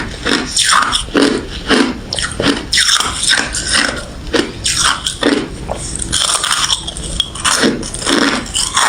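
Close-miked chewing of refrozen crushed ice, a steady run of crisp crunches at about two a second.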